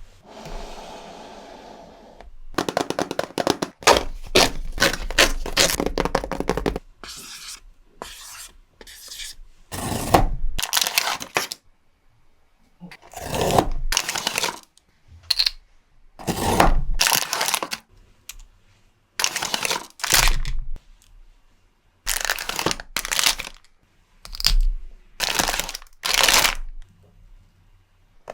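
Pop Mart Skullpanda blind-box packaging being torn open and handled: repeated short bursts of tearing and crinkling, with brief pauses between them.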